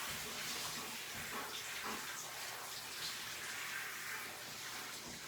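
Grooming-tub hose sprayer running steadily, water spraying onto a dog's wet coat as it is rinsed.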